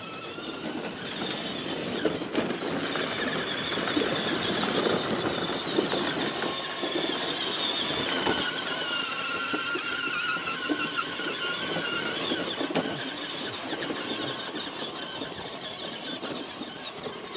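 DJI Neo 2 mini drone's propellers whining steadily in flight, the pitch wavering slightly over a rushing noise; it grows louder over the first few seconds and eases off near the end.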